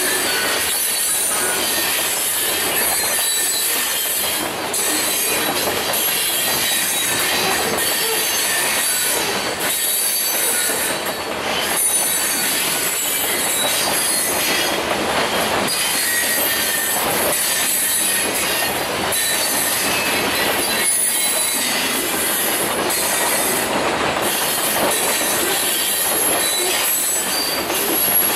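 Covered hopper cars of a grain train rolling past close by: a steady loud rush of wheel-on-rail noise, with thin high squealing tones from the wheels and occasional clicks.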